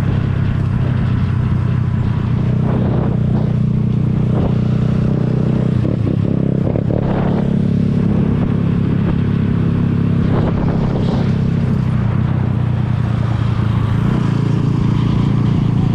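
Zanella Sapucai 200 motorcycle's single-cylinder engine running at a steady pace while riding.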